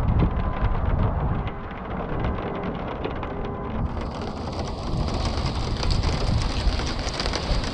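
Rain falling and pattering on surfaces over a steady low rumble. About four seconds in, the patter becomes brighter and louder.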